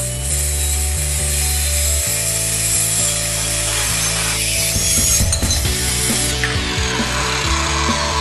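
Power saw cutting through steel tubing, a steady loud hiss over a low machine hum; the high part of the cutting sound falls away about six seconds in.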